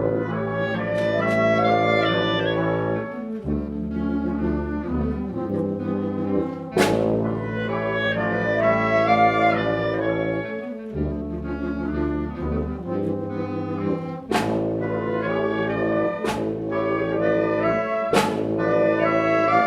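A school brass and wind band plays held, full chords, broken by short gaps, with sharp percussion crashes about a third of the way in and three more near the end.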